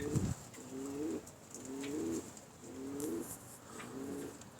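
Domestic pigeons cooing, one low wavering coo after another, about one a second.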